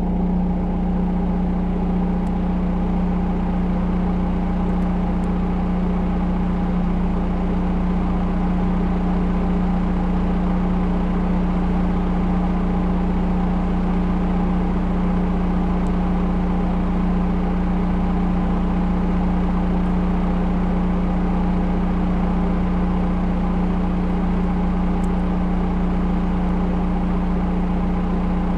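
Volvo L110 wheel loader's diesel engine running at a steady, unchanging note.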